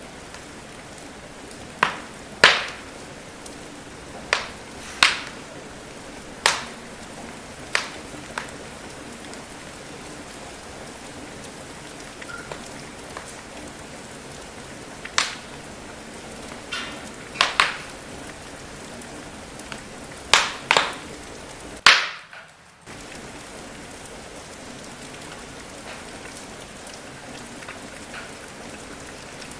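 Steady rain hiss with the sharp, irregular pops and crackles of a wood fire burning, about a dozen of them coming in two clusters. The sound drops out for about a second just after the loudest pop, about three quarters of the way through.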